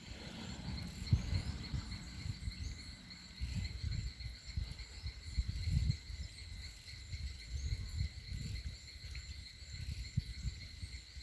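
A steady chorus of insects, crickets or similar, trilling high and unbroken. Under it, an uneven low rumble on the phone's microphone swells and fades every second or two, and it is the loudest part of the sound.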